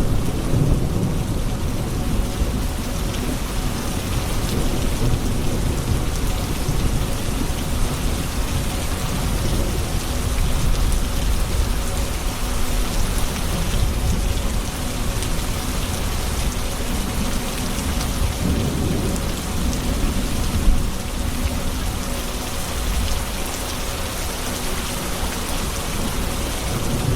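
Thunderstorm: steady heavy rain with rolling low thunder rumbling underneath, and one brief sharp crack about three quarters of the way through.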